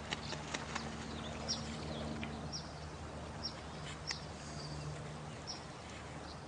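Night nature ambience: a steady wash of running water with short high chirping calls about once a second and a few sharp clicks, over a low steady hum.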